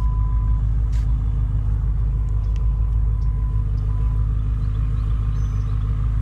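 BMW M5 F10's twin-turbo V8 idling with a steady low rumble, with a light click about a second in.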